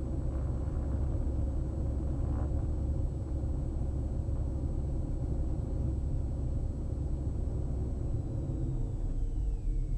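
Diamond DA42 NG's twin Austro AE300 turbodiesel engines running steadily at low power, heard from inside the cockpit as a constant low drone while the aircraft taxis onto the runway before the takeoff roll. A faint high tone falls in pitch near the end.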